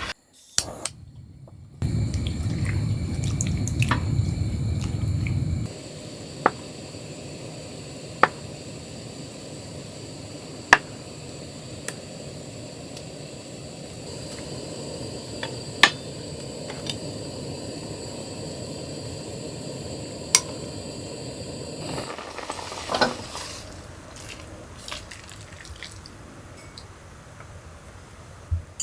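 Steady rain hiss with single heavy drops tapping at irregular intervals every couple of seconds. A louder, deeper rush fills a few seconds near the start. Near the end a few light clinks of dishes are heard.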